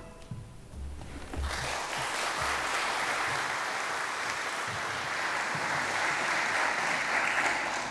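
Congregation applauding after a song, starting about a second and a half in and holding steady.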